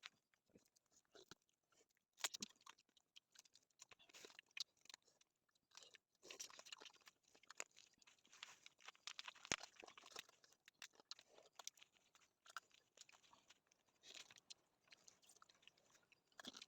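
Faint, irregular crunching and chewing of someone eating close to the microphone.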